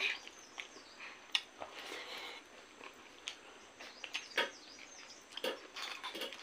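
Close-miked chewing and lip-smacking of a person eating rice and spicy rabbit meat by hand, with sharp wet mouth smacks about once a second.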